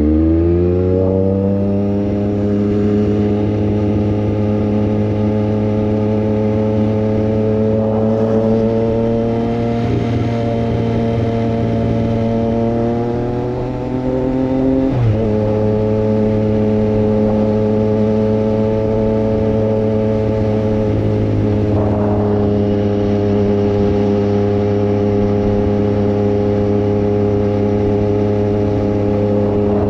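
Triumph Street Triple 765 RS's inline-three engine through a Racefit Growler full exhaust, ridden at steady cruising revs. The pitch climbs as it accelerates at the start and creeps slightly higher. About 15 seconds in, a quick gear change drops it a little, and then it holds steady.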